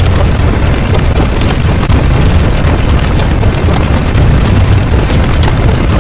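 A loud, unbroken rumbling roar, heaviest in the deep bass, with faint crackles over it: many sound effects stacked into a single dense mass of noise.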